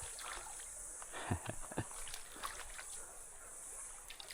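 Scattered light splashes and knocks in shallow water as a hooked Australian bass is brought in on light tackle, several coming close together a little over a second in, over a steady high-pitched hiss.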